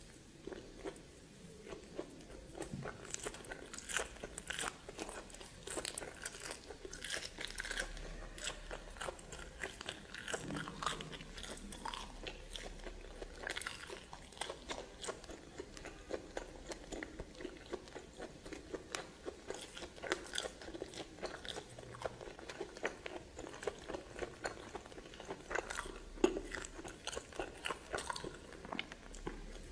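Close-miked biting and chewing of steamed snake, with irregular crunches and clicks several times a second.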